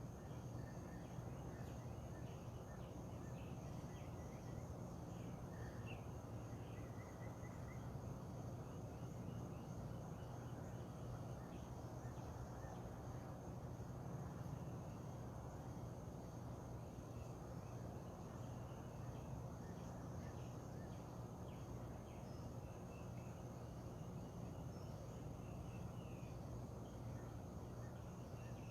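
Faint outdoor dawn ambience: insects keep up a steady high-pitched drone while birds give scattered short chirps, over a low steady rumble.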